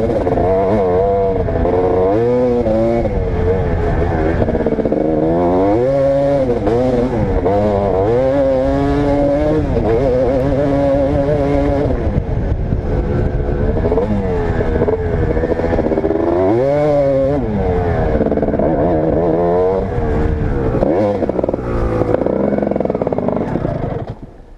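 Motocross dirt bike engine at full throttle, its pitch rising and falling over and over as it accelerates and backs off around the track. It drops away sharply near the end.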